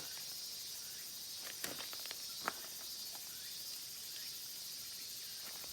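A steady high hiss of outdoor background sound, with a few scattered sharp clicks or snaps. The loudest click comes about two and a half seconds in.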